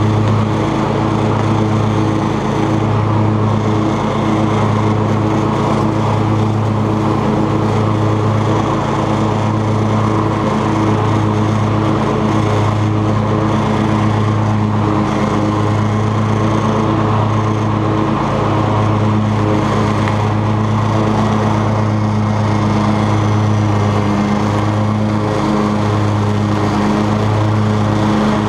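Cub Cadet XT2 riding lawn tractor with a 42-inch deck, its engine running steadily at an even pitch while mowing.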